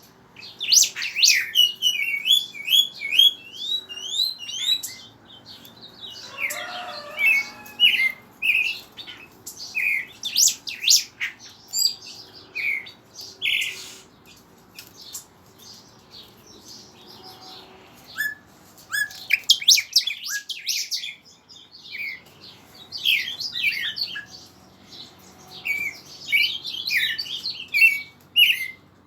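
Pet songbirds singing: bursts of quick, high chirps and rapid trills, with short pauses between phrases.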